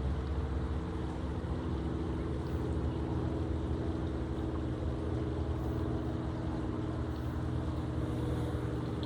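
A steady, unchanging engine hum from a motor running continuously.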